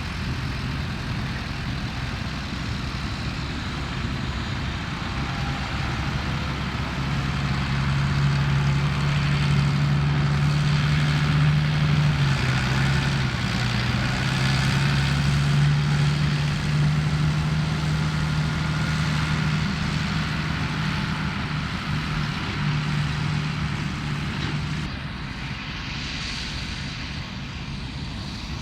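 Tractor diesel engine running as it drives past, growing louder through the middle and fading near the end, its note dipping briefly and coming back up about halfway through.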